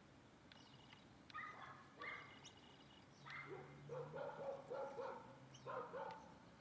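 Faint animal calls in several groups, the middle one a run of about four short arched notes in quick succession.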